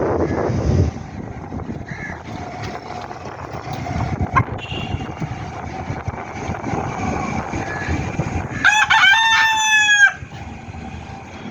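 A Leghorn rooster crows once, near the end, a single crow of about a second and a half, over steady wind noise on the microphone.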